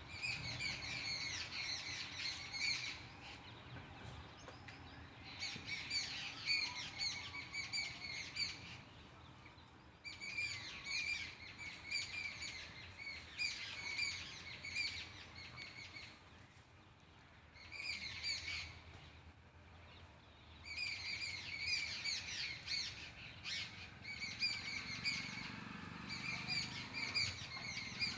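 A bird calling in quick runs of rapid, high repeated chirps. The runs last a few seconds each, with short pauses between them.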